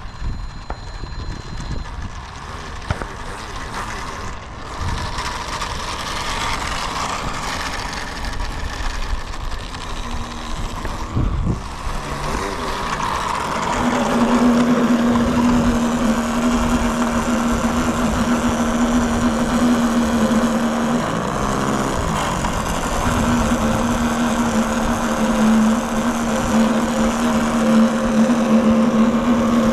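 A motor running at a steady, constant pitch. It starts about halfway in, drops out briefly, then holds steady again.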